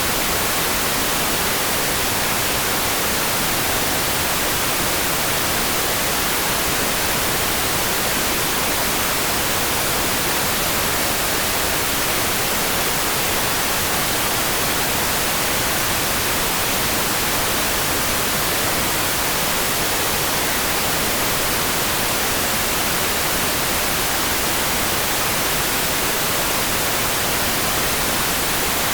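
Steady, unbroken hiss of rain. It is even and unchanging, brightest in the high end, with no separate drops or thunder standing out.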